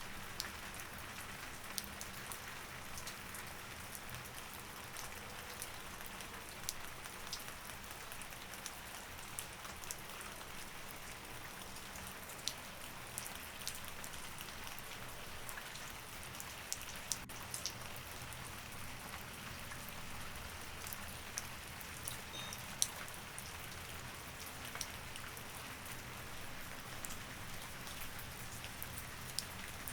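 Steady rain, a constant hiss with frequent sharp drips and taps of drops landing on a surface.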